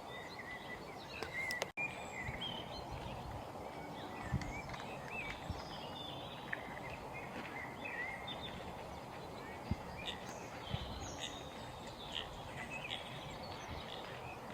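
Small birds chirping and whistling in short, scattered calls over a steady outdoor background noise, with a few soft low thumps. The sound cuts out completely for an instant just under two seconds in.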